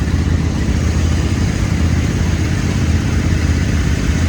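Tractor engine running steadily with a deep, even note.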